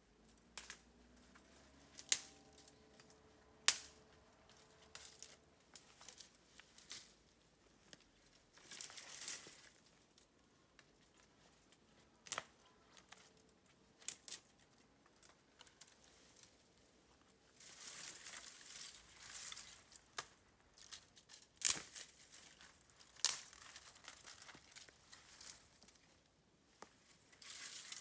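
Burning bamboo in a campfire, crackling with irregular sharp pops and snaps and a couple of longer stretches of crackle.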